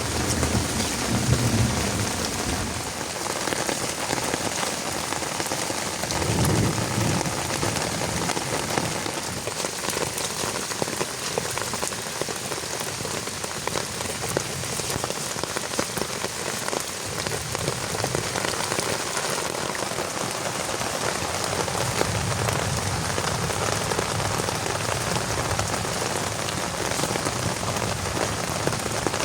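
Heavy rain falling steadily, with a few low rumbles in the first several seconds.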